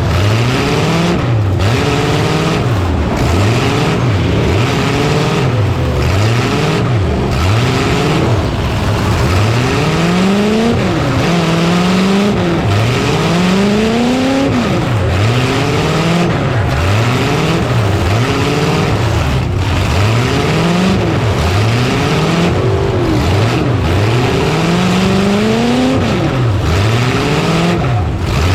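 Several demolition-derby truck engines revving hard, over and over, their pitch climbing and dropping as the trucks accelerate and back off. The revs overlap, with no break in the noise.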